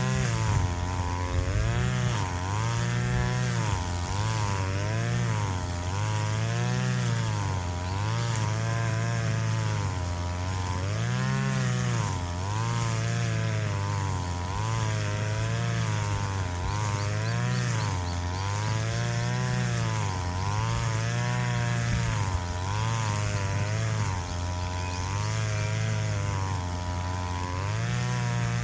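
Two-stroke engine of a brush cutter mowing grass at full throttle. Its pitch dips and recovers every second or two as the cutter swings through the grass.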